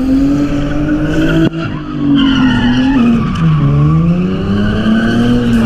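A car's engine held at high revs while its tyres screech, as in a donut or drift. The engine pitch wavers, dips about three and a half seconds in, then climbs back.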